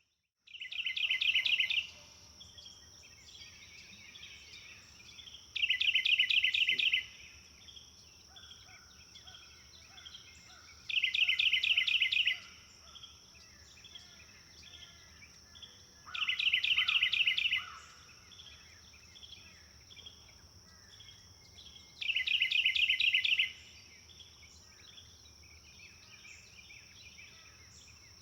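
Songbirds singing: one bird repeats a loud, rapid run of short notes lasting about a second and a half, five times at intervals of about five seconds, with softer bird calls between. A steady high-pitched drone runs underneath.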